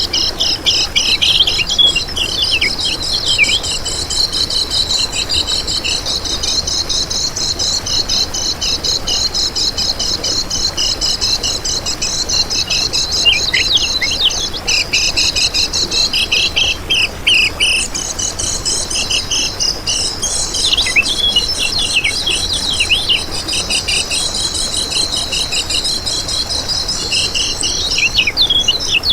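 Kecial kuning, a white-eye, singing: a continuous, rapid, high-pitched twittering song of dense chirps and trills with many short falling notes.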